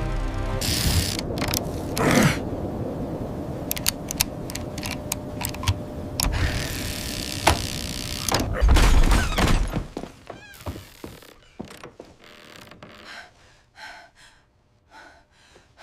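A run of knocks and thuds with noisy swells, building to a deep booming rumble about nine seconds in, then dropping to scattered softer clicks.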